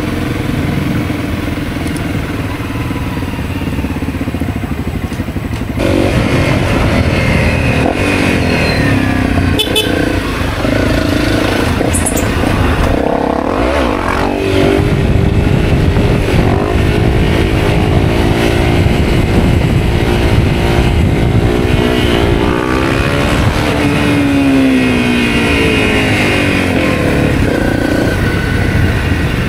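Honda CRF250L's single-cylinder engine running under way. It gets louder about six seconds in, and later its revs rise and fall several times.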